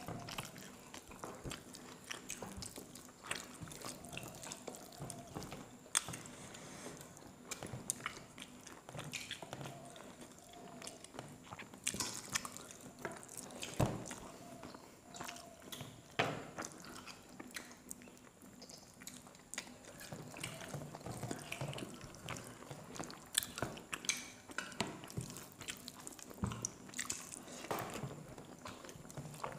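Close-miked eating sounds: chewing, lip smacks and wet mouth clicks as rice and chicken curry are eaten by hand. The small clicks are scattered throughout, with a few sharper ones.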